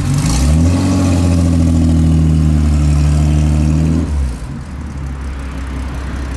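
Car engine running: the revs rise shortly after the start, hold steady at the higher speed for about three seconds, then fall back to idle about four seconds in.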